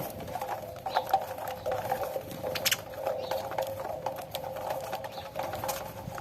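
Saffron finches pecking at cracked corn: a rapid, irregular patter of small ticks over a steady background noise.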